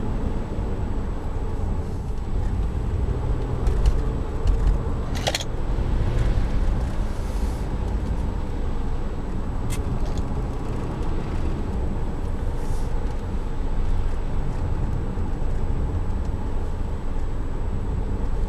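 Interior cabin noise of a 2012 Kia Sorento SX's V6 SUV on the move: a steady low rumble of engine and road, swelling slightly a few seconds in, with a couple of brief clicks.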